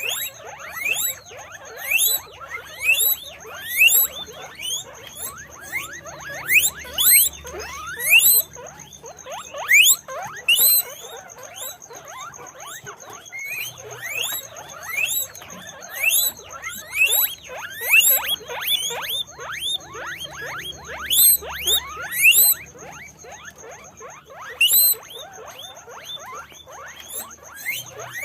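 Guinea pigs squeaking: a long run of short, high squeals, each rising sharply in pitch, several a second and often overlapping, with brief pauses about halfway and near the end.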